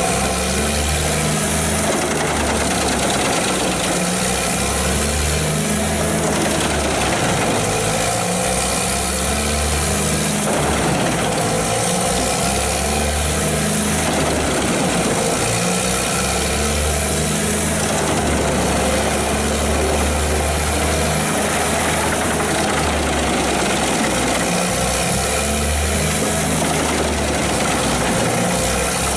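Pezzolato PTH 1200/660M mobile drum wood chipper running loud and steady, its engine note shifting up and down every few seconds as the load changes.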